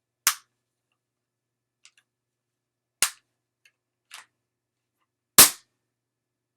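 Pump-action airsoft gun: three sharp snaps about two and a half seconds apart, the last the loudest, with fainter clicks between them as it is handled.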